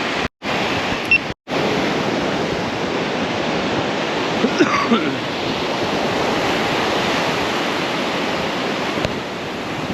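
Ocean surf washing onto a beach: a steady rush of waves, cut out briefly twice near the start.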